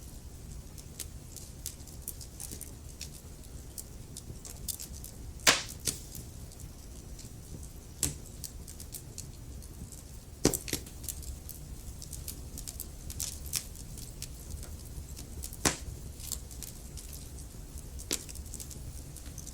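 Wood fire burning in a fireplace: a low steady rumble of flames with irregular crackling, and three louder pops from the logs, at about five, ten and fifteen seconds in.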